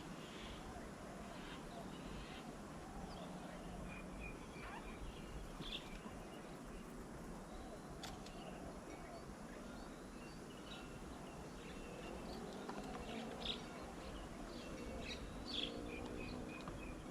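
Birds chirping and calling with short, scattered notes over steady low background noise.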